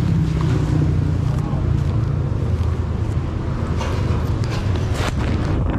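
Street traffic: vehicle engines running steadily, with scattered clicks and faint voices over it.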